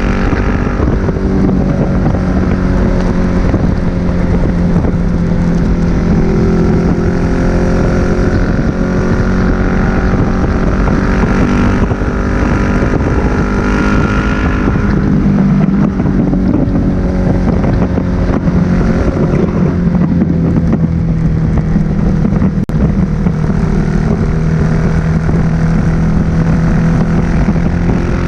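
Suzuki SV1000S V-twin running through an aftermarket Leo Vince exhaust while riding at speed, with wind noise on the microphone. The engine note holds steady, climbs in pitch about twelve seconds in, then drops back a couple of seconds later.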